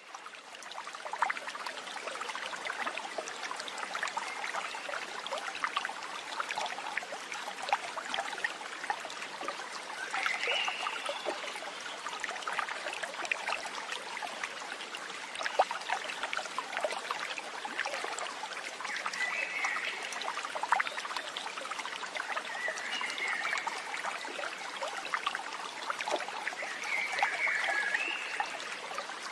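Water running in a stream, a steady trickling and splashing, with a few short chirps heard four times.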